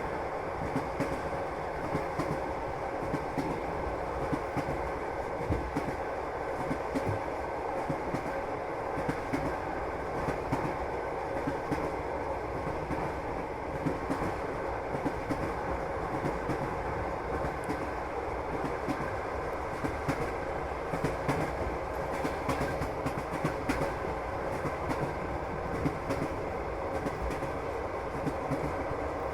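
Passenger train running, heard from inside a carriage: a steady rumble of wheels on the rails with frequent clacks over the rail joints and a faint steady hum.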